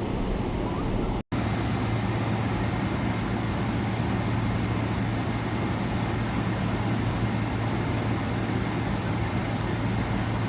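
Steady airliner cabin noise in flight: a constant rush of engine and airflow noise with a low hum, broken by a split-second dropout to silence about a second in.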